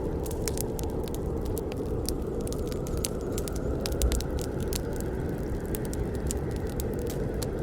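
Wood fire burning: a steady low rush with frequent, irregular sharp crackles and pops.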